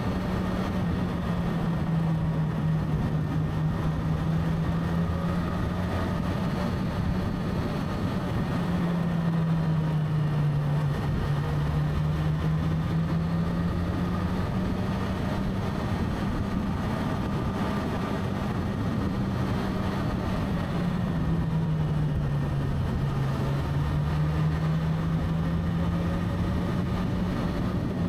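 Motorcycle engine running steadily on the move, its pitch sagging and climbing back twice as the bike slows and picks up speed again.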